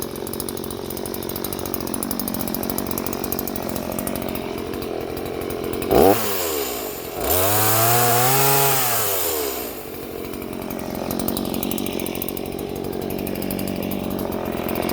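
Stihl two-stroke chainsaw engine idling, blipped briefly about six seconds in, then revved up for a couple of seconds and let fall back to idle.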